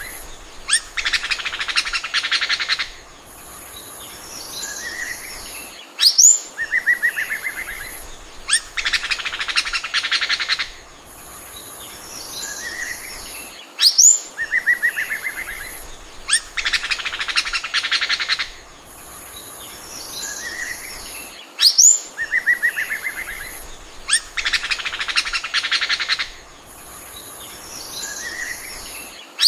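Oriental magpie-robin singing: a quick rising whistle, a short trill, then about two seconds of rapid chattering notes and a few softer calls, the same phrase repeating about every eight seconds.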